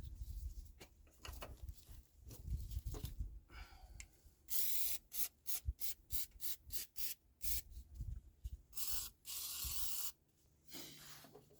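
WD-40 aerosol can spraying onto a 1964 Mercury Comet's ignition points and engine parts to drive off moisture after washing. About four seconds in comes a run of about a dozen short hissing squirts, one longer burst near the start of the run and another near its end, after faint handling sounds.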